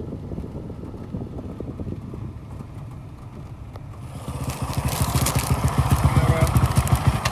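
Off-road vehicle engine running with a fast exhaust pulse. It grows much louder about four seconds in as it comes close under throttle, then eases right at the end.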